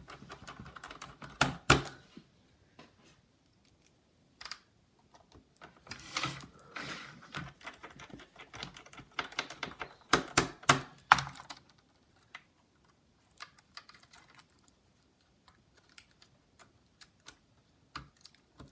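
Small scattered clicks and taps of a screwdriver and plastic laptop parts being handled while a display hinge is screwed into a laptop, coming in clusters about 2, 6 and 10–11 seconds in, with sparser ticks after.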